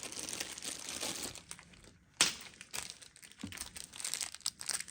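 Plastic packaging crinkling as hands rummage through the small screws that came with a computer case, with one sharp click about two seconds in and scattered light clicks after it.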